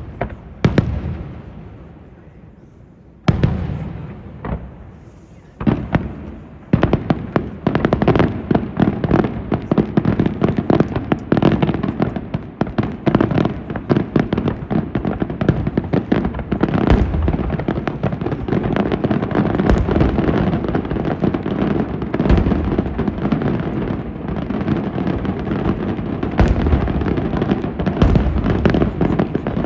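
Aerial fireworks exploding: a few single bangs, each fading off, in the first seven seconds, then a dense, continuous barrage of rapid bangs and crackling.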